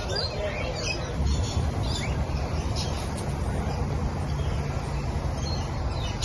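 Birds chirping with short, scattered calls over a steady low rumble.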